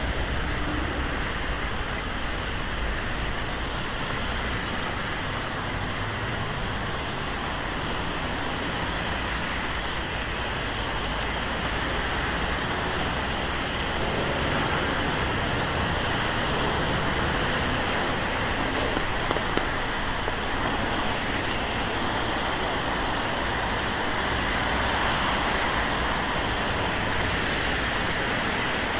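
Steady rain with city road traffic on wet streets: an even hiss, swelling gently a couple of times as vehicles pass.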